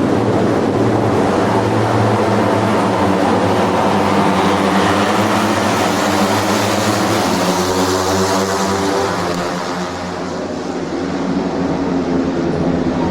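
Motorcycle engine running, with a steady rush of wind noise over it. A set of engine tones rises in pitch about seven to nine seconds in, and the level dips briefly around ten seconds.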